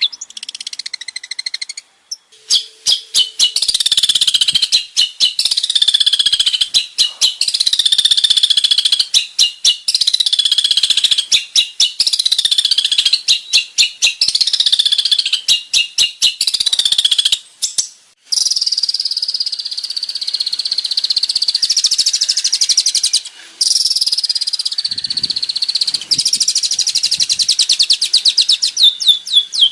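Male long-tailed shrike (cendet) singing a loud, continuous, varied song of high chattering phrases, sweeping whistles and fast repeated notes. It breaks off briefly about two seconds in and again a little past halfway.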